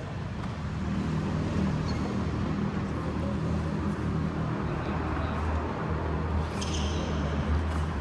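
A steady low engine rumble, with a brief high-pitched sound about six and a half seconds in.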